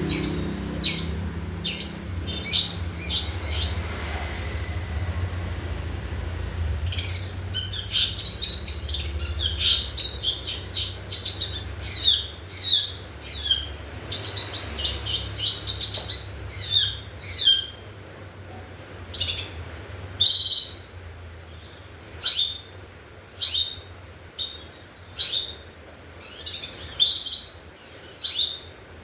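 Long-tailed shrike (pentet) calling: a long run of short, sharp chirps, crowded together at first and then coming about one a second.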